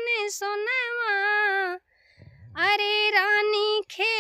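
A woman singing a lachari geet, a North Indian folk song, with no accompaniment, holding long wavering notes. She breaks off briefly about two seconds in to take a breath, then sings on.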